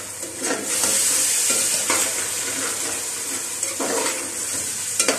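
Onion, tomato and yogurt masala sizzling in hot oil in a large metal pot, stirred with a slotted metal spoon that scrapes and knocks against the pot. A steady high sizzle with repeated spoon strokes.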